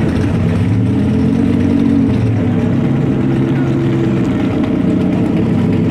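Car engines idling at the drag-strip start line, one briefly revved: the engine note rises from about a second in, then drops back to a steady idle.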